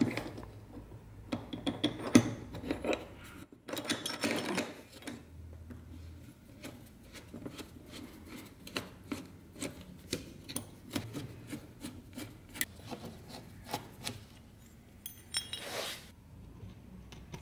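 Hand work on an antique wooden ice box: a steady string of small clicks and knocks, with a few scraping or rubbing passes on the wood.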